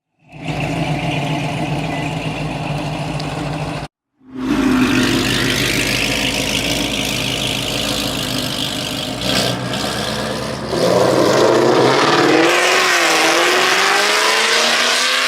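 Car engines running and revving, heard in short clips cut together with abrupt breaks. Near the end an engine's pitch wavers and then rises as it revs.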